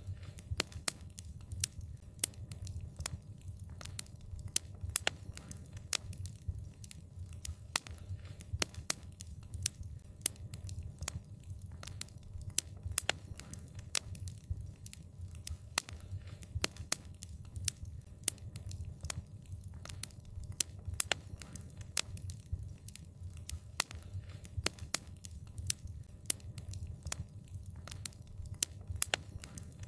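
Wood fire crackling, with sharp irregular pops and snaps several times a second over a steady low rumble of the burning fire.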